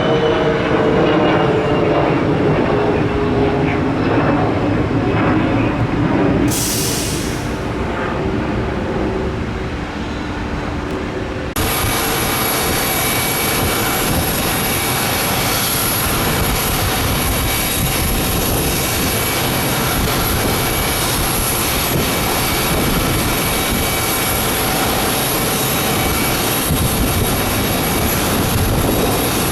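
Regional jet climbing away after take-off: its engine whine falls slowly in pitch over a rumble, with a brief hiss part way through. About eleven seconds in, it cuts abruptly to a steady, even rumble of distant airport noise.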